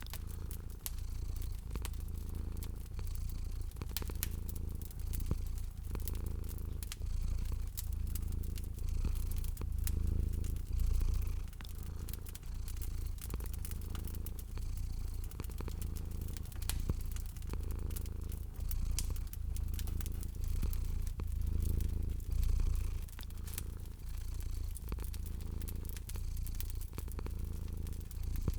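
A cat purring with a low, pulsing rumble, over a crackling fire that gives frequent small pops and snaps.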